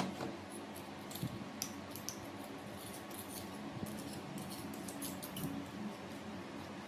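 Light, irregular clicks and scrapes of small parts being handled, over a low steady hum.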